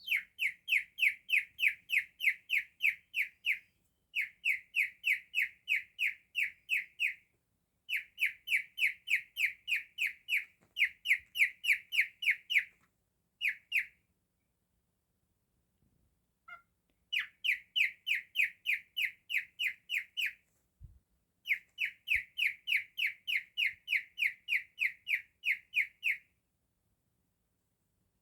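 Cockatiel whistling a canary-like song: phrases of quick, identical high chirps, about three a second, repeated over and over with short pauses between, and a longer break about halfway through.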